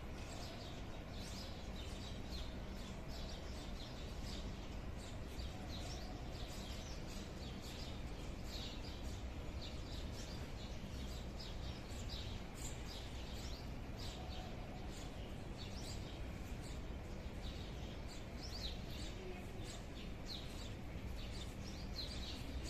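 Small birds chirping repeatedly in short, quick calls over a steady low outdoor rumble.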